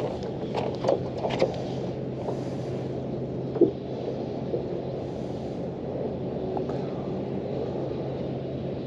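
A steady low motor hum, with a few clicks and knocks in the first second and a half and one sharper knock about three and a half seconds in.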